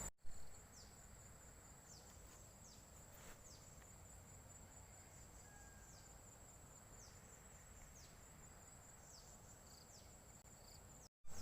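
Faint insect chorus: a steady high trill of crickets with short falling chirps repeating every second or so, over near-silence.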